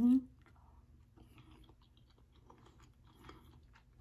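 Faint, close-up chewing of a mouthful of yellow rice and broccoli, with small irregular mouth clicks.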